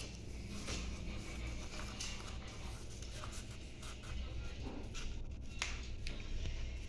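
Scratchy rustling and rubbing of hands working a material, with short sharp scrapes now and then, over a low steady hum.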